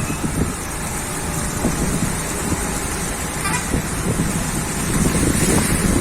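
A motor vehicle running, with a dense, uneven low rumble of wind on the microphone and a faint short tone about three and a half seconds in.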